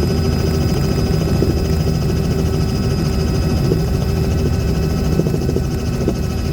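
Aircraft in flight: the engine and propeller or rotor droning steadily, without change.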